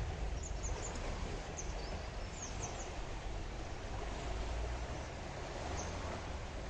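Small birds chirping in short, high calls, a cluster in the first three seconds and one more near the end, over steady outdoor background noise with a low rumble.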